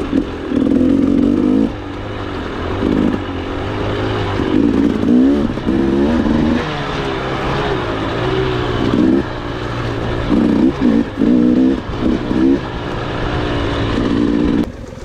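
Trail motorcycle engine revving under riding, its pitch rising and falling with repeated bursts of throttle. It drops to a lower, quieter note near the end.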